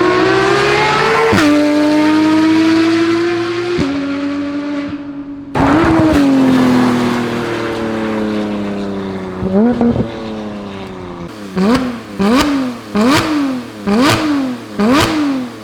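Porsche 991.1 GT3 RS flat-six through an IPE titanium exhaust with catted headers, revving high with two sudden drops in pitch. After a brief break the revs fall away slowly, and near the end comes a run of about six quick throttle blips.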